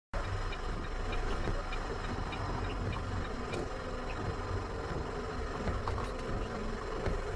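Steady vehicle engine and road rumble, with a few faint ticks, starting abruptly.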